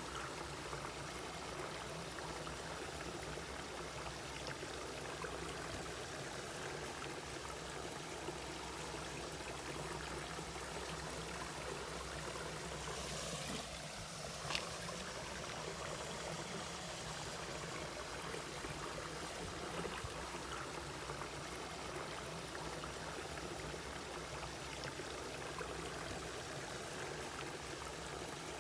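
Mountain valley stream flowing and babbling over rocks, steady throughout, with a brief louder splash and a sharp tick about halfway through.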